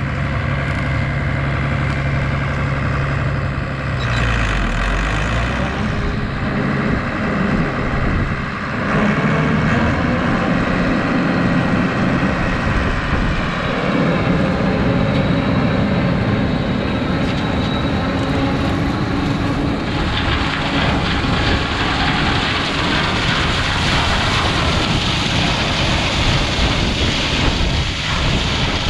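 Tractor engine running, its note shifting about 4 and 9 seconds in, with a stronger rushing noise joining about 20 seconds in.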